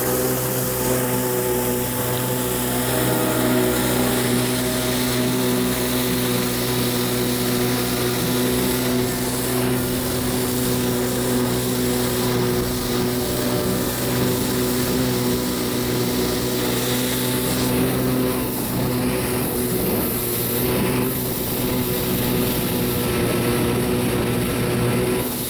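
Kawasaki 650SX stand-up jet ski's two-stroke twin engine running at a steady throttle, its pitch holding level, with a steady hiss over it.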